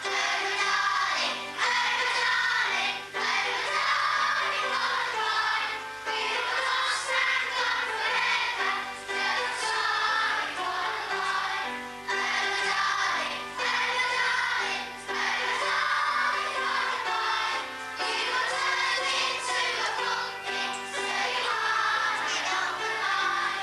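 A group of children singing a song together with musical accompaniment, phrase after phrase with short breaths between. The singing stops at the very end.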